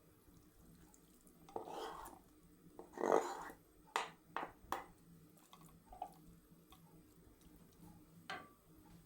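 Raw chicken pieces being put into an oiled frying pan: two short soft slapping, scraping sounds, then several sharp knocks of a utensil against the pan.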